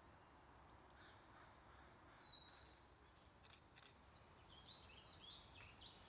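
Wild songbird calling in woodland. There is a loud, high whistle that falls steeply in pitch about two seconds in, then a quick run of short warbling notes near the end, over a faint, quiet background.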